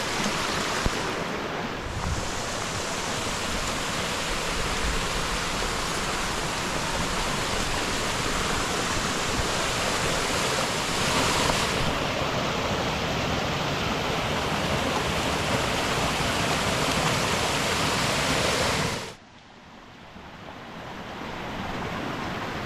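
Waterfall rushing, a loud steady wash of falling water. Near the end it drops away abruptly, and a fainter rush of water builds back up.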